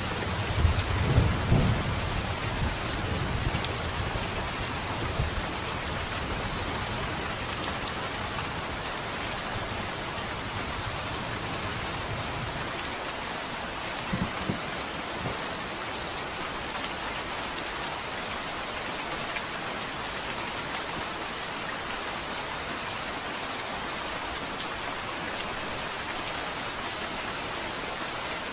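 Steady heavy rain with rolling thunder in the first several seconds that fades away, and a short low rumble about halfway through; afterwards only the even hiss of rain.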